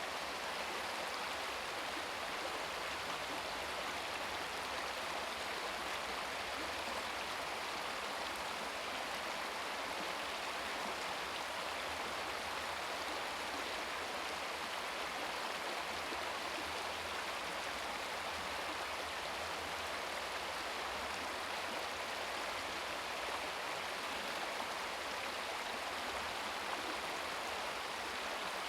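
Babbling brook: shallow stream water splashing and burbling over rocks in a steady, unbroken rush.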